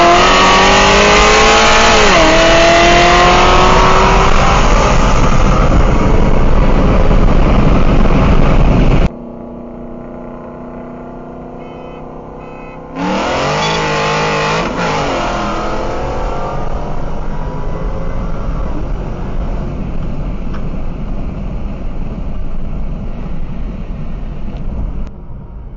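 A high-powered car engine accelerating hard at full throttle: its pitch climbs, drops at a gear shift about two seconds in, and climbs again, very loud and distorted. It cuts off abruptly about nine seconds in to a quieter steady engine sound, and then another hard pull climbs in pitch from about thirteen seconds in and carries on more quietly.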